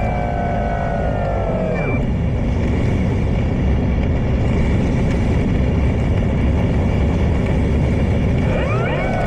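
Wind buffeting the microphone, over the whine of an E-flite Draco's electric motor and propeller. The whine glides down in pitch over the first two seconds as the plane passes, fades under the wind, then returns with quick rising and falling glides near the end.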